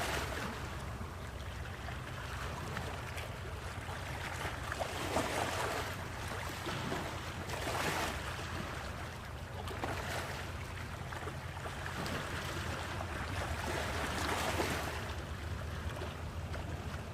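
Sea waves breaking and washing in, the rush of water swelling every two to four seconds over a steady low rumble.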